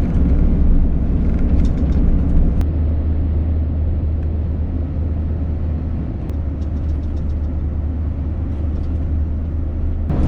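Steady low rumble of a Scania S650 lorry's V8 engine and road noise while driving, heard from inside the cab.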